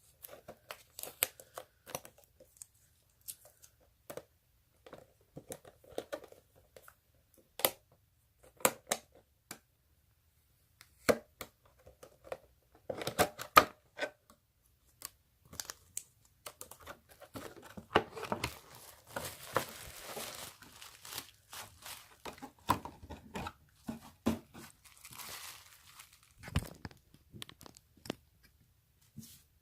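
Packaging being opened and handled by hand while unboxing a ball-jointed doll head: scattered small clicks, taps and crinkles, with two longer rustling stretches in the second half.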